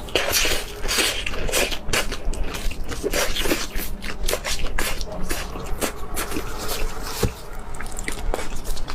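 Close-miked eating: chewing with wet, crackly mouth sounds, a quick irregular run of small clicks and squelches.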